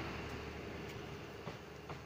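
Receding rumble of a passenger train moving away down the line, fading steadily, with two sharp clacks near the end.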